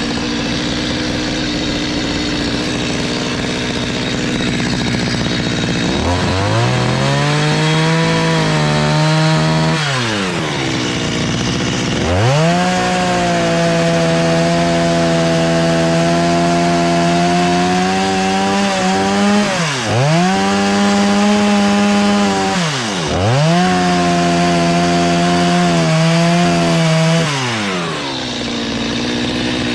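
Two-stroke chainsaw cutting into a wooden log. It idles, revs up about six seconds in, eases off near ten seconds, then revs again and holds from about twelve seconds with two brief dips, and drops back to idle near the end.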